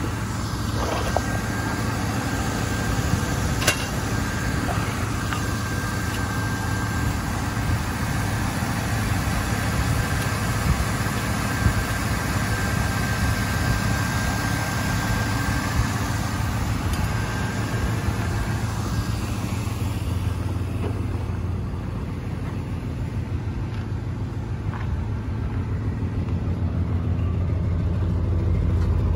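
1989 Chevy Caprice Brougham engine idling steadily on fresh spark plugs and wires, running smoothly without a shake. The exhaust note grows louder near the end, heard at the tailpipe.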